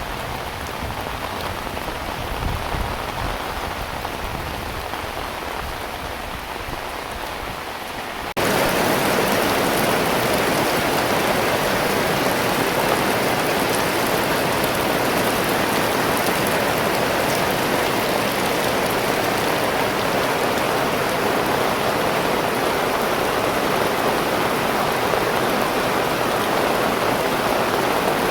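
Heavy rain falling steadily, an even hiss of drops on surfaces, with a low rumble underneath at first. About eight seconds in the rain jumps suddenly louder and fuller, then stays steady.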